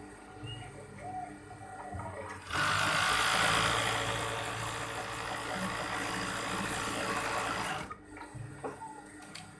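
Industrial overdeck (coverstitch) sewing machine stitching at speed for about five seconds, starting abruptly about two and a half seconds in and stopping just as suddenly. A low motor hum runs before and after.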